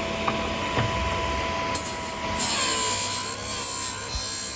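GD-13 drill bit grinder motor running with a steady whine. About two seconds in, a drill bit's cutting edge is pressed against the grinding wheel, adding a harsh, high rasping that wavers in pitch.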